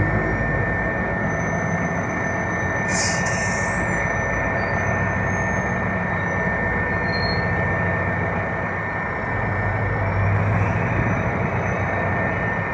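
FCCA 705 diesel locomotive shunting a string of empty tank wagons: engine running under a continuous rumble of the moving train, with a steady high-pitched tone and a brief hiss about three seconds in. The engine hum grows louder near the end.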